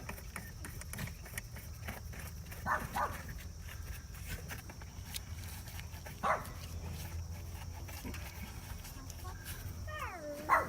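A dog barking: single barks several seconds apart, with faint clicks of hand tools between them.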